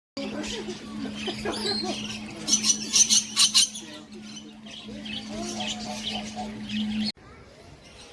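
Many birds chirping and squawking, with a run of loud harsh squawks about two and a half seconds in, over a steady low hum. The sound cuts off suddenly near the end, leaving a quieter background.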